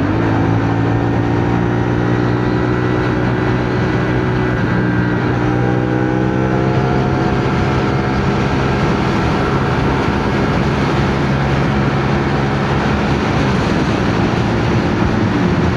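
CFMoto 450NK parallel-twin motorcycle engine running at steady cruising speed under rushing wind noise, its note holding mostly even with small shifts in pitch.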